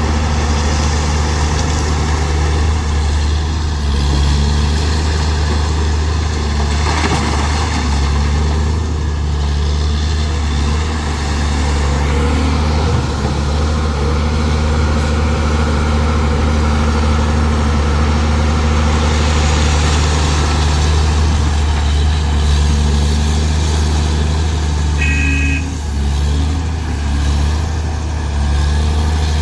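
Heavy construction-machine diesel engine running steadily at a constant, deep hum. There is a brief knock about seven seconds in and a short high-pitched tone near the end.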